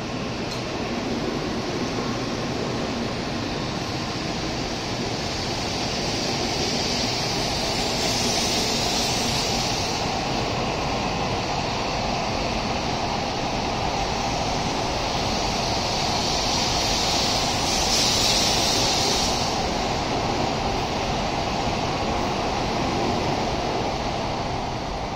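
N700A-series Shinkansen train pulling out of the station and gathering speed alongside the platform: a steady rush of running noise that swells to its loudest about eighteen seconds in and eases as the last cars clear, near the end. Twice, around eight and eighteen seconds in, a brighter hiss rises over the rush.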